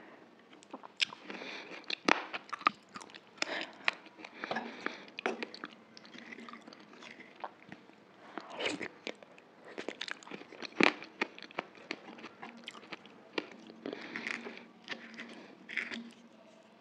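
Close-up chewing of dahi puri: the crisp puri shells crunch between the teeth with the soft yogurt, in irregular clusters of sharp crunches, loudest about two seconds in and again near eleven seconds.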